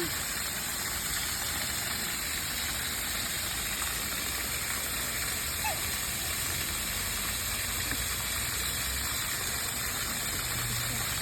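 Steady rush of flowing water, with one brief faint chirp about halfway through.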